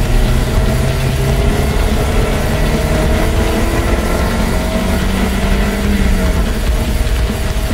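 Lotus Elise engine pulling hard out of a corner, its pitch rising slowly for several seconds and then dropping about six and a half seconds in, over a steady hiss of tyres on a wet track.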